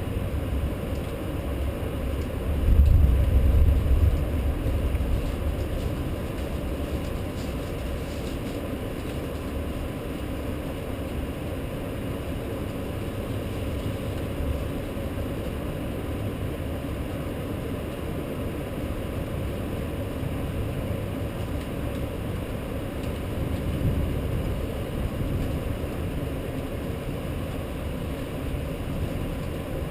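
Steady noise of a night rainstorm, with a low rumble swelling about three seconds in and a smaller one near the end.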